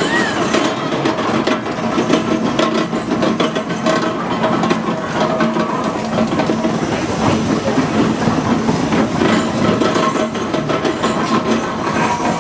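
Steam traction engine working up a hill: a steady dense mix of steam hiss and mechanical clatter.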